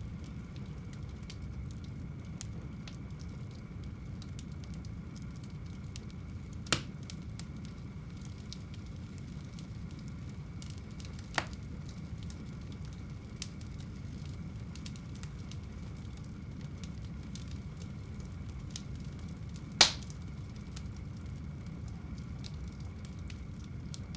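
Wood fire burning in a home fireplace: a steady low rumble with faint crackling throughout and three sharp pops, about 7, 11 and 20 seconds in, the last the loudest.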